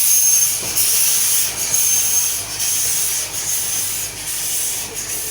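Steam locomotive letting off steam: a loud, steady hiss with a thin high whistling tone that comes and goes.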